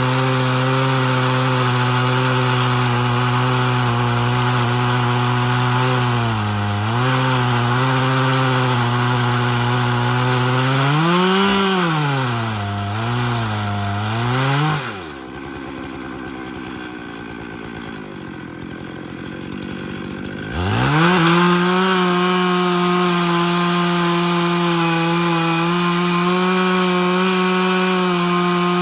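Chainsaw running a mill cut through live oak: the engine labours under load with its pitch sagging and wavering, drops to idle about halfway through, then revs back up near the end to a steady, higher note.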